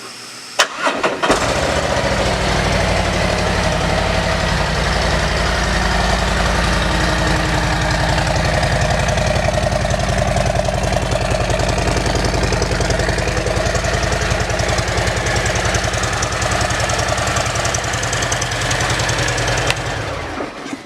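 Harley-Davidson Milwaukee-Eight 107 V-twin on a 2018 Road Glide Special, breathing through an aftermarket Rinehart exhaust, cranks on the starter about half a second in. It catches and runs at a steady, evenly pulsing idle, then is shut off near the end.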